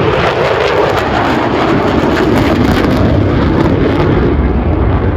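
F-16 fighter jet making a loud roaring flyby. About four seconds in, the high part of the roar drops away, leaving a low rumble as the jet passes.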